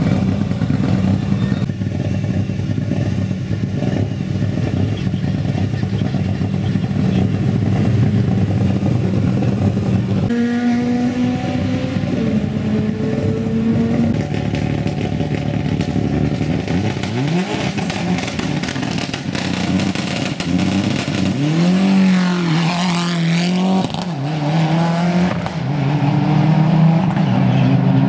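Mitsubishi Lancer Evo rally car's turbocharged four-cylinder engine running at a steady idle. In the second half the revs rise and fall in several sweeps.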